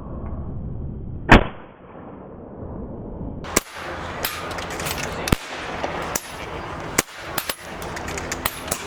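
PCP air rifles firing on a benchrest line: one loud, close shot about a second in, then from about three and a half seconds a scattered run of sharp shots from several rifles at irregular intervals.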